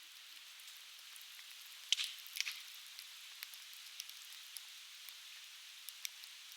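Conifer firewood burning, crackling and popping over a steady hiss, with a cluster of loud snaps about two seconds in and scattered single pops after.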